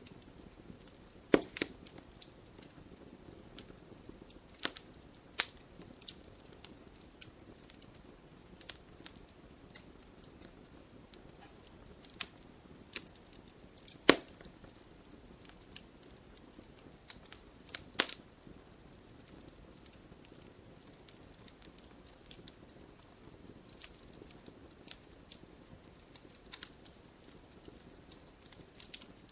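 Fire crackling in a fireplace: irregular sharp pops and snaps over a faint steady hiss, a few louder pops standing out, the loudest about fourteen seconds in.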